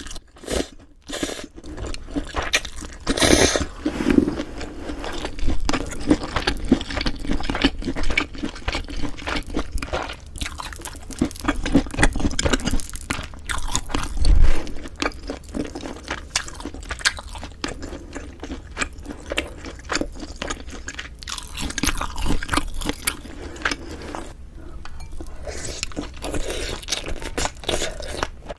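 Close-miked eating sounds: steady chewing and biting of food, with many small wet clicks and crunches. A louder low thump comes about halfway through.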